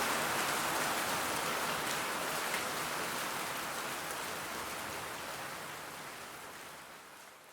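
Steady rain falling, with scattered drops ticking, fading out gradually to near silence.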